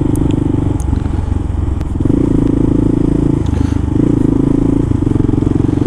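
Kawasaki KLR650's single-cylinder four-stroke engine running while riding, a steady pulsing drone that eases off briefly a few times.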